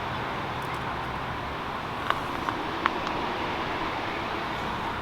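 Steady rushing outdoor background noise with no clear pitch, with a few faint clicks a little past two seconds in.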